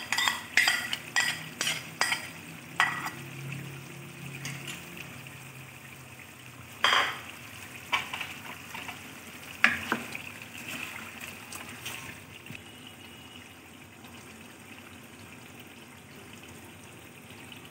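A metal spoon scraping and clinking against a plate several times in the first few seconds, then chicken frying in a wok, a steady sizzle with a few more clinks. The sizzle comes from a yogurt and fried-onion paste just added to the pan.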